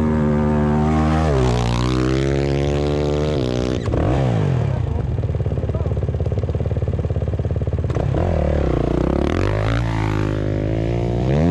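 Off-road motocross motorcycle engine running hard, its pitch rising and falling repeatedly as the throttle opens and closes. About two-thirds through, a second engine's pitch crosses it.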